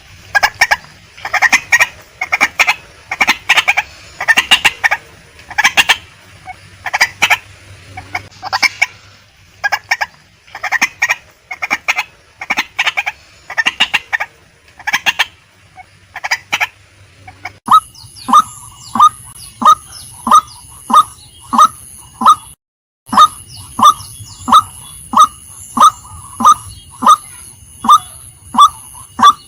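Female white-breasted waterhen calling, loud and repeated. For the first half the notes come in quick clusters. About 18 seconds in it changes to an even series of single falling notes, a little over one a second, with a brief dropout near 23 seconds.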